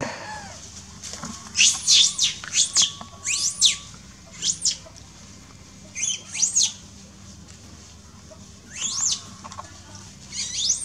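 Bird chirping: short, high-pitched chirps that each rise and fall, coming in quick clusters of several, a few times over.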